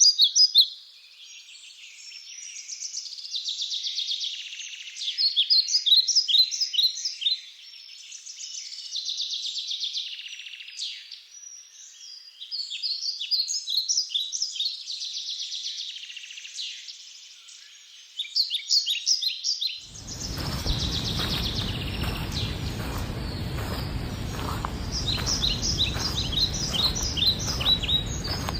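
Songbird singing, repeating a short phrase of quick high notes every few seconds. About 20 s in, a steady outdoor noise cuts in abruptly beneath the song.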